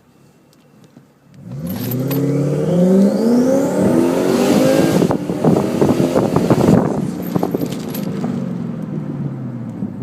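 Twin-turbocharged Lexus car engine revving up hard about a second and a half in, its note rising over a few seconds into a loud rough stretch with rapid crackles, then the note dropping and fading as it eases off.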